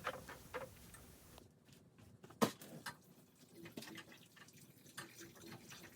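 Faint, scattered clicks and small taps, the sharpest about two and a half seconds in.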